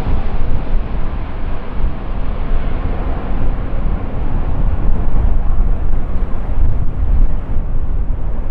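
Jet engine noise from an Airbus Beluga XL, powered by two Rolls-Royce Trent 700 turbofans: a heavy, deep rumble, its upper hiss slowly fading as the aircraft moves away.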